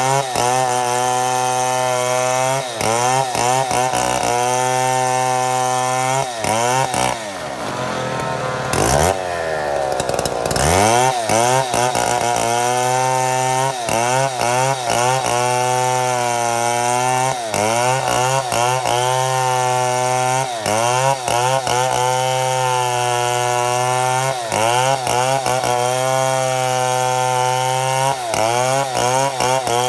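Chainsaw running at full throttle, ripping lengthwise through a mahogany log to mill boards. Its pitch sags briefly every second or two under the load, and from about 7 s to 11 s in it bogs down deeply before revving back up.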